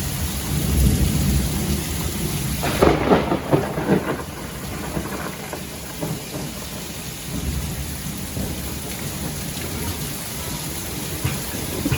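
Steady rain with rolling thunder rumbling low. A louder crackling peal comes about three seconds in and fades over a second or two.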